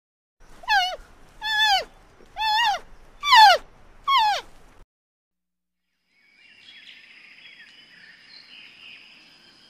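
A gull calling: five short cries in a row, each falling in pitch, then faint background noise.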